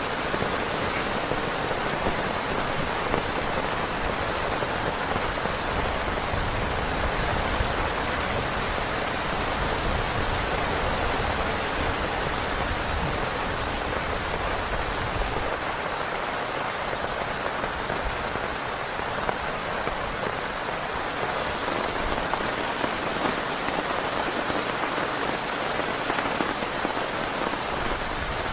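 Heavy rain falling steadily on a tent: a dense, even hiss with small scattered taps of drops.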